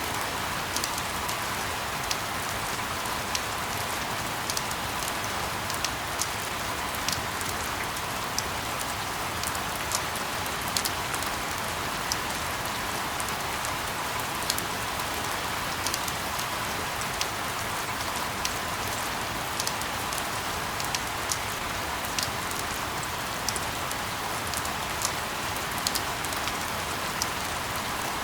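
Steady rain: an even hiss with sharp drop ticks scattered irregularly through it.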